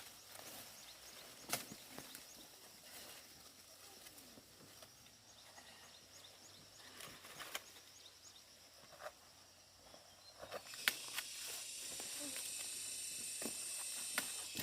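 Dry corn plants rustling and crackling with scattered sharp snaps as corn is harvested by hand. It gets louder and denser from about ten and a half seconds in.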